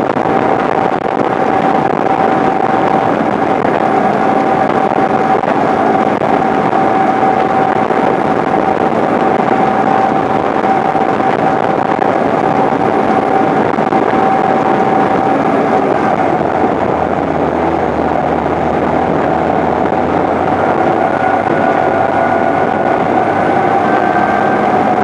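John Deere 8970 four-wheel-drive tractor's six-cylinder Cummins diesel running steadily under load while pulling a turbo-till tillage tool, with a constant whine over the engine noise. The sound deepens slightly about two-thirds of the way through.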